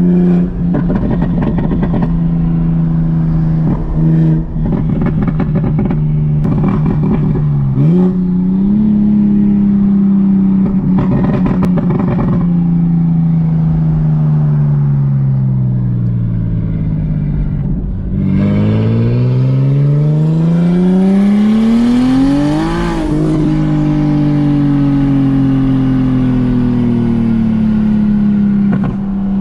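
Turbocharged BMW 335i straight-six under hard driving: clusters of sharp crackles in the first twelve seconds, a gear change about eight seconds in, and revs falling off. Then a long pull rising to high revs, a snap upshift and the revs easing down.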